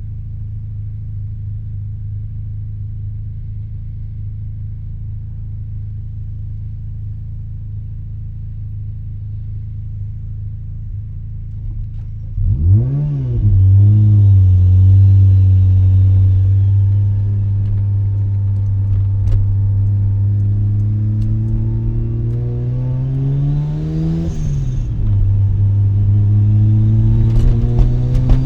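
Mazda RX-7 rotary engine through an RE Amemiya Dolphin Tail 90 Curl exhaust, heard from inside the cabin with the windows down. It drones steadily at low revs, then gets louder as the car pulls away and accelerates, the pitch climbing slowly. The pitch drops at a gear change about two-thirds of the way through, then climbs again.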